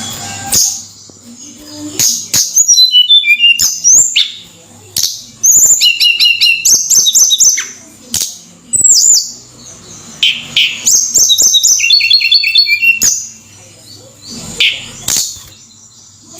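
Tledekan gunung songbird singing vigorously in rapid, high chirping phrases, with short pauses between them and sharp clicks scattered through.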